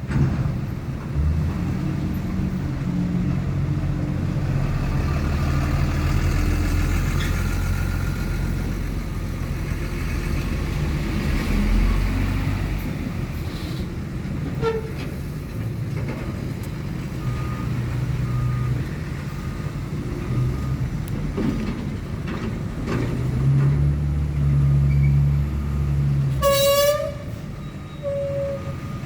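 Heavy truck engine running in port traffic, with a faint high beep repeating in the background. Near the end a vehicle horn sounds, once for about half a second and then once more briefly.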